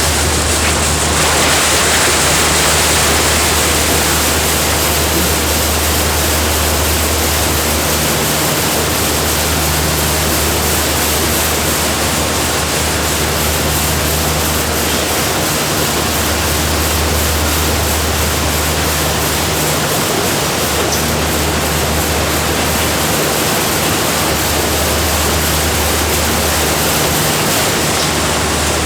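Loud, steady rushing noise of food-factory machinery, with a deep hum that cuts in and out every few seconds.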